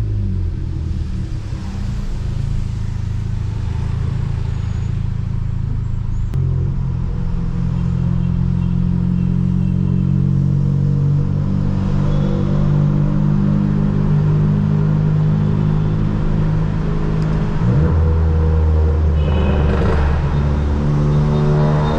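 Volkswagen Polo GTS's Stage 2 tuned turbocharged four-cylinder with a sports exhaust, running at mostly steady low revs while driving. The engine note steps up slightly about six seconds in and changes again near eighteen seconds.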